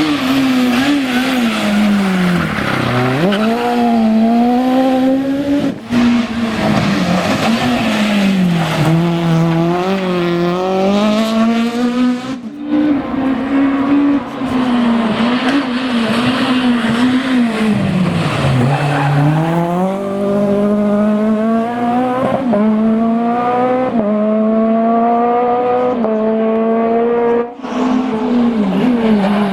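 Peugeot 206 Maxi Super 1600 rally car's naturally aspirated 1.6-litre four-cylinder engine revving hard, its pitch climbing and dropping again and again through gear changes and lifts. The sound breaks off and resumes a few times as one pass gives way to the next.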